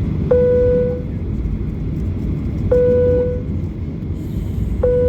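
Airliner cabin chime sounding three times, about two seconds apart: each one a single bell-like tone that starts sharply and fades within a second. Under it runs the steady low rumble of the Boeing 737-800's cabin.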